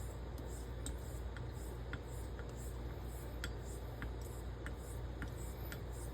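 Straight razor being honed on a wet yellow Belgian coticule: soft, even scraping strokes about twice a second, with light clicks between them.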